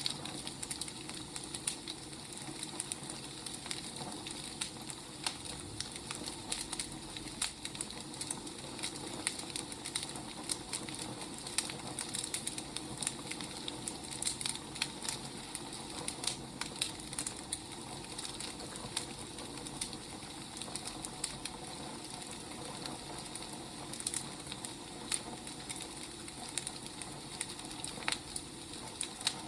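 Burning firewood crackling: irregular sharp pops and snaps over a steady low hiss.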